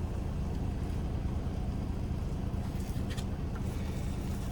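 Steady low drone of an idling semi-truck diesel engine, with a couple of faint clicks about three seconds in.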